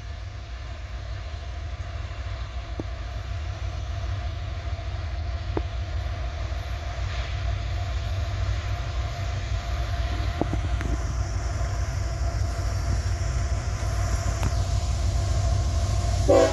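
Diesel freight train locomotives pulling up a grade, a deep rumble with a steady engine tone that grows louder as the train approaches, with a few sharp clicks from the rails. A brief, louder pitched note comes in at the very end.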